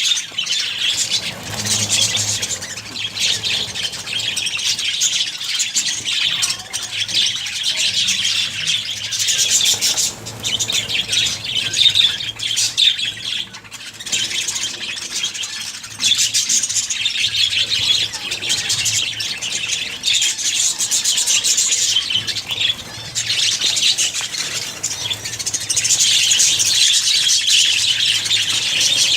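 A flock of budgerigars chattering and squawking without pause, many birds calling over one another in a dense, high-pitched twitter.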